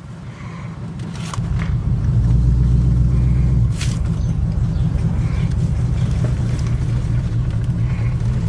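A 1974 Chevy Nova's 350 small-block V8 running with a deep, steady rumble. It grows louder over the first two seconds, is loudest for a moment after that, then settles and holds steady. There is a sharp click about four seconds in.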